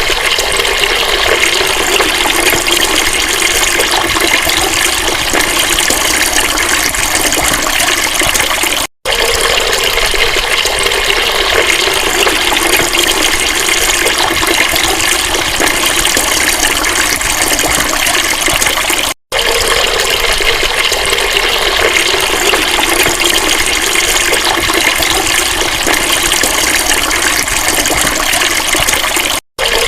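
Steady, loud rush of flowing water, with no change in its sound, broken twice by a split-second dropout to silence.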